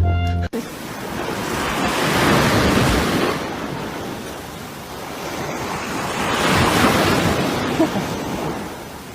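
Ocean surf: a rushing wash that swells and fades twice, loudest about two and a half seconds in and again around seven seconds.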